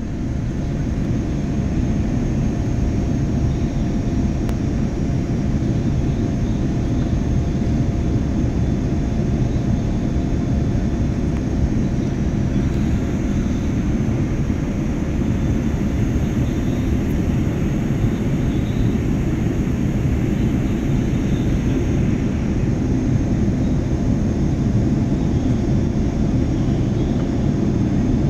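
Airliner cabin noise in flight: a steady low rumble of engines and rushing air, with a faint steady hum above it.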